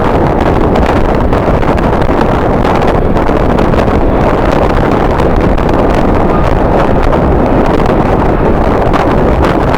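Strong wind buffeting the microphone: loud, steady, rumbling noise with no break.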